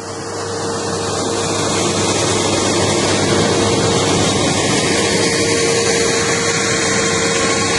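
Fendt Vario tractor's six-cylinder diesel working under load while pulling a harrow through ploughed soil, with a steady tone over the engine noise. It grows louder over the first couple of seconds, then holds steady.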